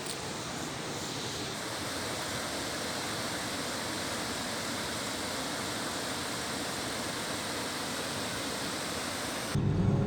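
Waterfall rushing in a steady, even roar of falling water. Near the end it cuts off suddenly to a vehicle's low engine hum.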